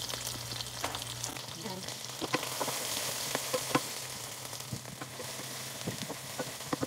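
Sliced onions and garlic sizzling in hot cooking oil in a stainless steel pot, stirred with a wooden spatula: a steady hiss with scattered sharp clicks and pops.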